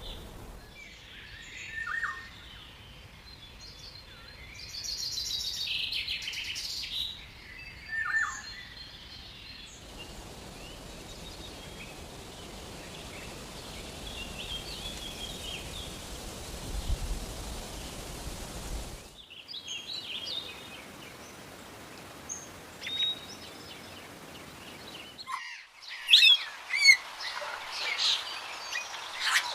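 Wild birds calling and singing: short chirps and whistles, changing abruptly several times as one recording gives way to another, with a steady hiss of background noise in the middle section and a busy run of sharp chirps near the end.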